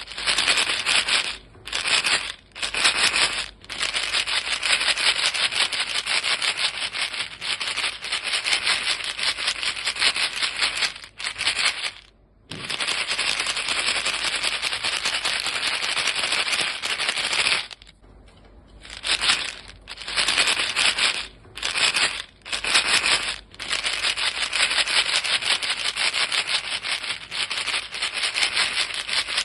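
Box of chewing gum pellets shaken continuously, the pellets rattling against the box in a dense, even clatter. Short pauses break it a few times near the start, once about twelve seconds in, and for about a second around eighteen seconds in.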